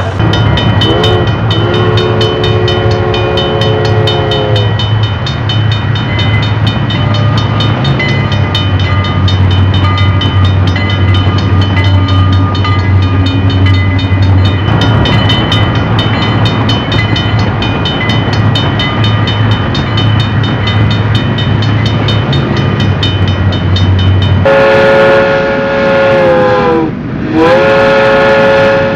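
Model trains running on a layout, with a steady low hum and fine rapid clicking from the track. A locomotive sounds its multi-note horn about a second in, then gives two long, loud blasts near the end, the second right after the first.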